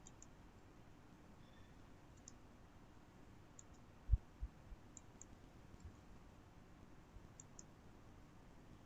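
Faint computer mouse clicks, mostly in quick pairs spaced a second or two apart, with two soft low thumps about four seconds in.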